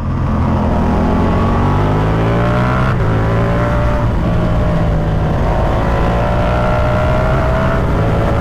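Ducati Multistrada V4 Pikes Peak's V4 engine pulling hard and rising in pitch, with a brief dip about three seconds in before it climbs again. It eases off slightly near the end.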